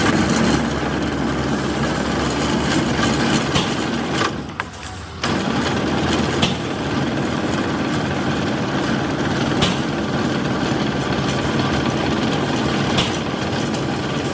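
A motor running steadily with a low hum, briefly dropping away about four seconds in and cutting back in suddenly a second later, with a few faint clicks later on.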